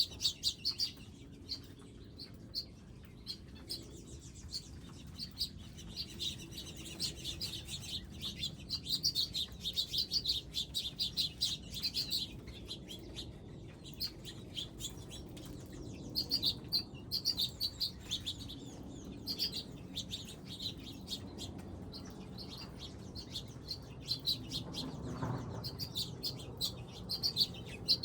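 Small wild birds at garden feeders chirping: many short, high chirps in quick runs, pausing and starting again.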